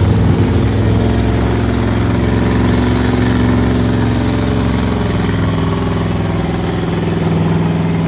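Big engine of a pulling truck or tractor running loud and steady, its pitch holding level with only a slight shift in tone near the end.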